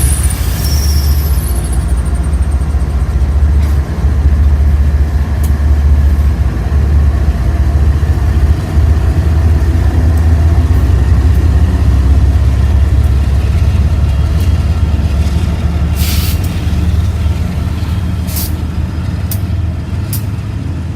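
Diesel locomotives of a freight train, GE ES44-series and Dash 9 units, running as the train starts moving: a loud, steady, heavy low rumble. A few brief hisses come in over the last third.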